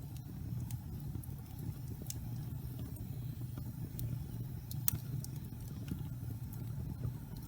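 Wood fire burning in a fireplace: a steady low rumble with scattered sharp crackles and pops of the burning wood, the loudest pop about five seconds in.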